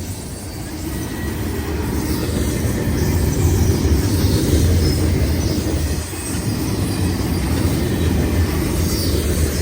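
Long freight train rolling past close by: a steady low rumble and clatter of the cars' wheels on the rails, growing louder over the first few seconds.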